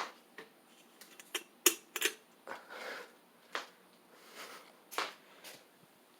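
About seven sharp clicks at uneven spacing with soft rustling between them: the pull-chain switch of a Harbor Breeze Armitage ceiling fan's light kit being pulled.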